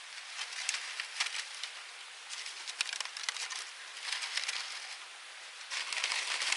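Twigs burning in a small wood-burning camp stove, crackling and popping irregularly in bunches over a steady hiss, louder near the end.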